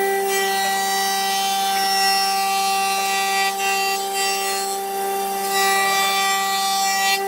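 Power tool working wood: a steady motor whine under a rasping cutting noise that grows and eases as the tool bites.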